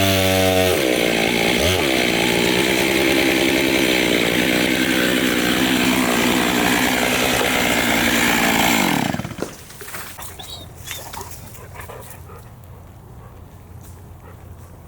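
Chainsaw cutting firewood at full throttle, then the engine winds down with a falling pitch and stops about nine seconds in, leaving a few faint knocks.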